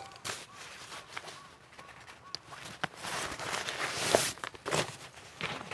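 Footsteps on the forest floor, an irregular rustling tread with a few sharp snaps, loudest about three to five seconds in.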